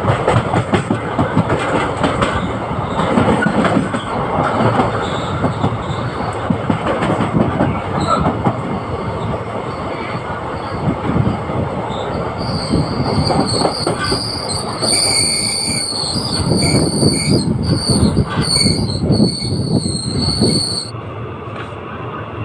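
Passenger express train running on the rails with a steady rumble and wheel clatter. About halfway through, the wheels begin a high-pitched squeal against the rails that lasts several seconds and stops shortly before the end.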